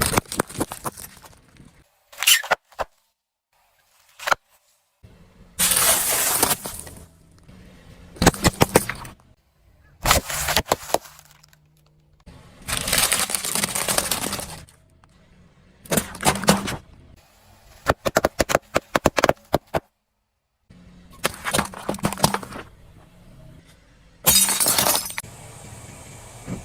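Objects being crushed under a car's tyres: a string of loud crunching, cracking and breaking bursts, each from half a second to two seconds long, in short clips that cut off abruptly.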